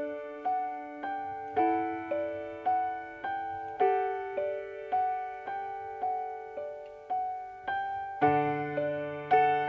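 Electric piano playing a slow, gentle intro of repeated chords, about two notes a second; a low bass comes in near the end.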